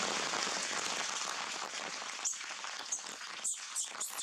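Heavy rain falling in a steady dense hiss. A few short sharp taps come through it in the second half.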